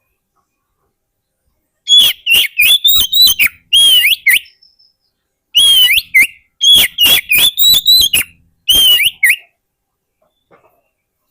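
Oriental magpie-robin (kacer) singing: two bursts of rapid, loud whistled and harsh notes, the first about two and a half seconds long, the second about four, with a short pause between.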